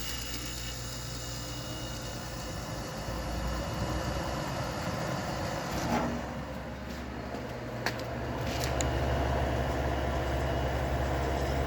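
Amana R12AE dehumidifier running: a steady fan whoosh over a low compressor hum, with a couple of light knocks. It gets louder about eight and a half seconds in.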